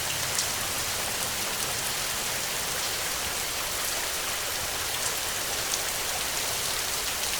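Steady heavy rain: a dense, even hiss of drops with a few sharper, louder drops, about half a second in and near the end.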